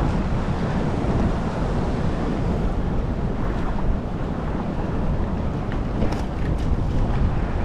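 Steady wind buffeting the microphone, a rough, fluttering noise heaviest in the low end, with a couple of faint clicks about six seconds in.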